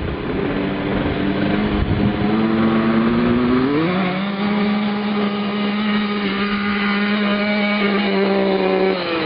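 Small kids' motocross bike engine running hard, its pitch climbing about four seconds in, held high and steady, then dropping off near the end.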